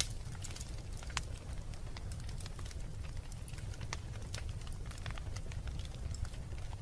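Wood fire burning in a fireplace: irregular sharp crackles and pops over a low steady rumble.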